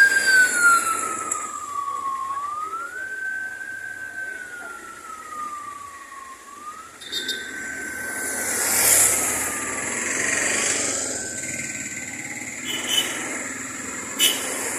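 Siren wailing, its pitch slowly rising and falling about every four seconds, over background noise. There are a couple of sharp clicks near the end.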